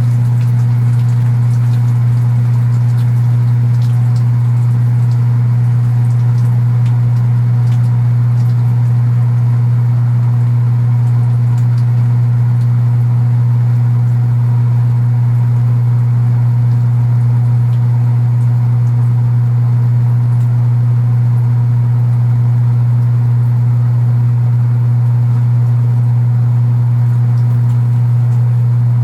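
Kenmore belt-drive portable washing machine running mid-cycle, its motor and cabinet giving a loud, steady low buzz that does not change. The cabinet buzz is a known rattle of this machine.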